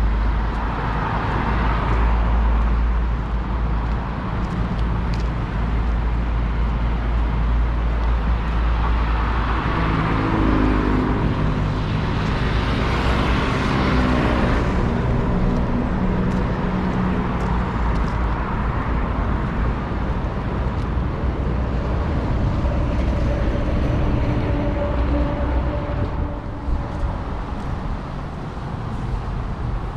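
Road traffic noise with a steady low rumble. A vehicle passes close by about halfway through, its engine sound swelling and then falling in pitch as it goes.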